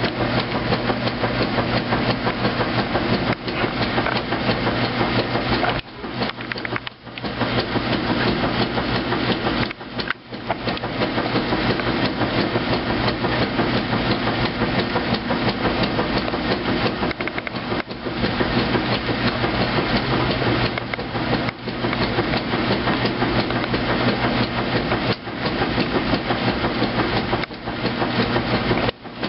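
2008 Kenmore top-loading washing machine running its heavy duty cycle: a continuous, rapid knocking and rattling, broken by brief dips about six, ten and eighteen seconds in.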